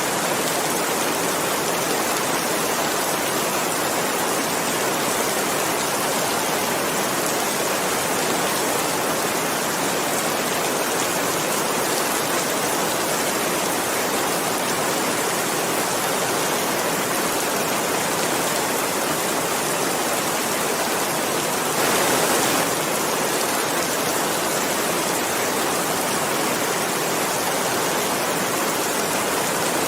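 Steady rain falling, an even hiss with no single drops standing out, swelling a little louder for under a second about three-quarters of the way through.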